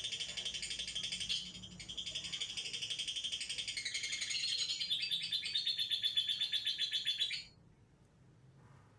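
Young white-rumped shama singing a fast, stuttering run of notes in the 'trotol' style. There is a short break about one and a half seconds in, the song gets louder about halfway through, and it stops suddenly near the end.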